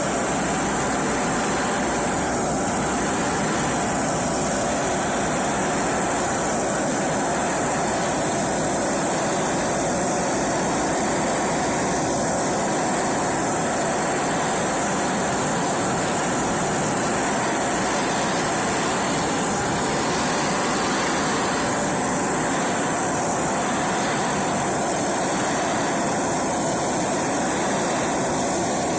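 A power tool running steadily and without a break, with an even, hissing noise.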